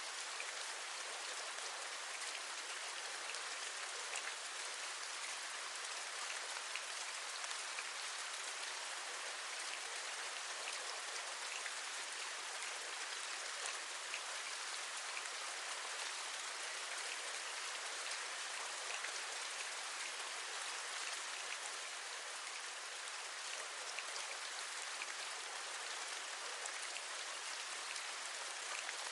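Steady rain falling, a constant hiss with many small, distinct drop taps scattered through it.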